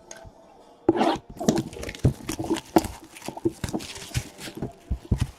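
Trading-card pack wrappers crinkling and tearing, with cards being handled: an irregular run of short crackles and rustles.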